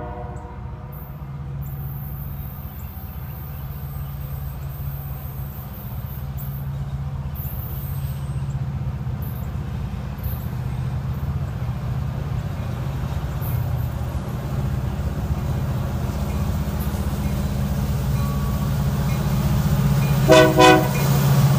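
Union Pacific SD70M diesel locomotive approaching with its freight train: a steady low rumble that grows louder throughout, with two short blasts of the locomotive horn near the end.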